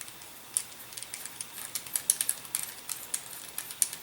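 Irregular run of small, sharp clicks and taps from hand-handling the parts of a small model airplane while undoing the wing's mounting screw.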